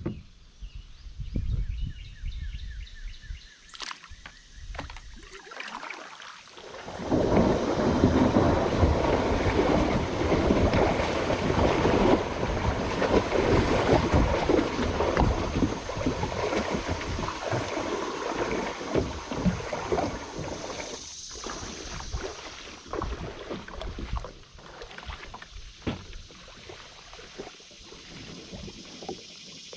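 Creek water rushing and splashing around a moving kayak. It grows loud about seven seconds in, holds for roughly a quarter-minute, then settles to lighter splashes and knocks.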